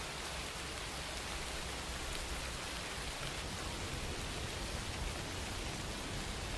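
Steady rain falling, a dense even hiss with no individual drops standing out.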